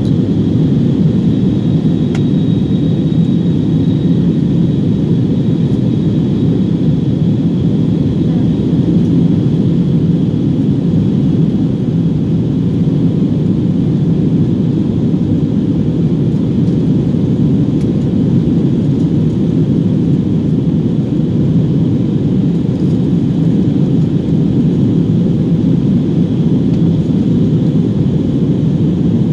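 Airbus A321-200 jet engines running steadily, heard from a window seat inside the cabin: an even low rumble with a faint steady high whine above it.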